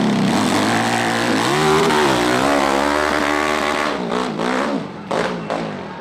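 Hill-climb dirt bike engine revving hard, its pitch rising and falling as the throttle is worked, with a few short sharp bursts near the end.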